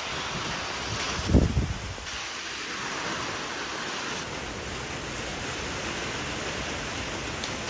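Storm wind and rain rushing steadily in a severe thunderstorm. A short low gust buffets the microphone about a second and a half in.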